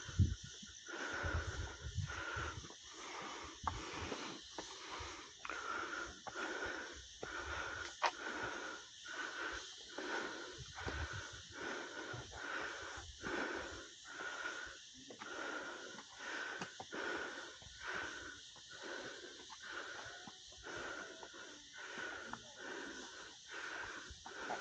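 Heavy, rhythmic breathing of a person on a hike, with steady in-and-out breaths a little faster than one a second.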